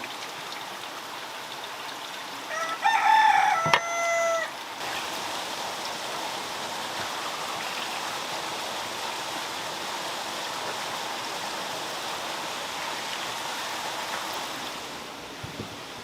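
A rooster crows once, about three seconds in, in a single call of about two seconds. Afterwards a steady rushing noise, like running water, fills most of the rest.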